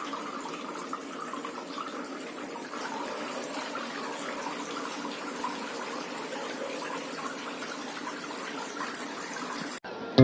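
Small tabletop waterfall fountain running, with water falling and splashing steadily. It cuts off abruptly near the end.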